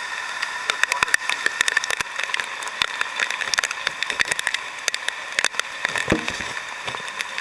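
Heavy typhoon rain: a steady hiss with many irregular, sharp taps of drops striking close to the microphone.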